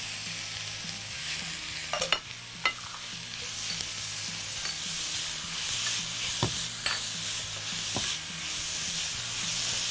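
Raw chicken pieces sizzling as they fry in a pan with chopped onion and green pepper, the hiss growing slowly louder. A silicone spatula stirs them, knocking against the pan a few times.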